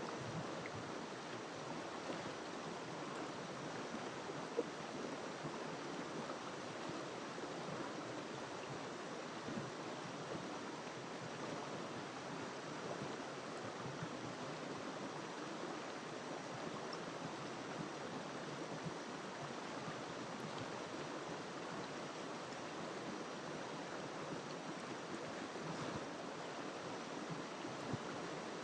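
River water flowing steadily, a continuous rushing. There is a single short click about four and a half seconds in.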